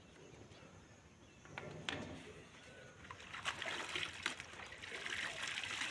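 Water splashing and trickling in a basin as clothes are handled and washed by hand. There are a few small clicks, and the splashing gets busier from about three seconds in.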